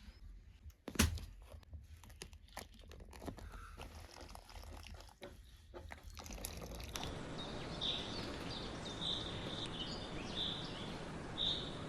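Scattered knocks and crunching with a sharp knock about a second in, then a steady outdoor hiss with short high bird chirps about once a second near the end.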